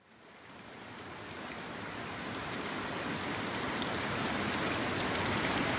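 Rushing mountain stream: a steady wash of water noise that fades in and grows steadily louder.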